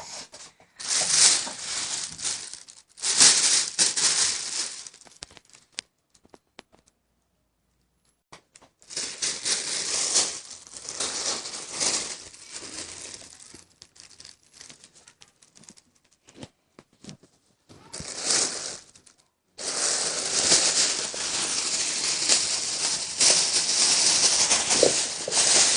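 Thin black plastic bag crinkling and rustling in irregular stretches as a cat moves around inside it, with a quiet pause of a couple of seconds about a quarter of the way in.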